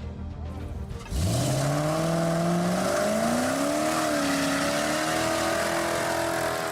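Car engine revving hard while the car reverses out of deep snow with the snow truck's help. The pitch climbs steadily for a couple of seconds from about a second in, jumps higher, and is then held high and wavering.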